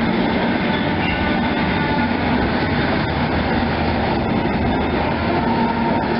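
A train passing close by on the rails: a loud, steady rumble of wheels on track with a few faint clicks.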